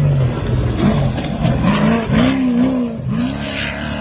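Off-road race truck's engine revving hard, its pitch climbing and falling several times as the driver gets on and off the throttle.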